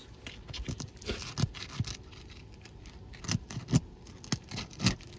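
Hand tool scraping and clicking against asphalt roof shingles while nails are being worked out. Irregular sharp clicks and short scrapes, a few louder knocks in the second half.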